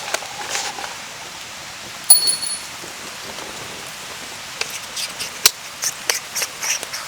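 Steady rain pattering on a camping tarp. About two seconds in comes one loud, short metallic clink that rings briefly, and in the second half a run of irregular sharp taps and clicks.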